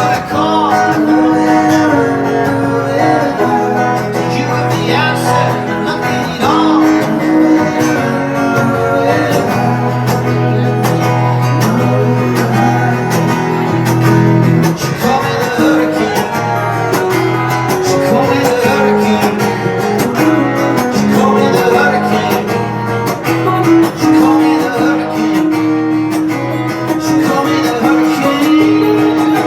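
Live acoustic guitar strummed steadily with a man singing over it.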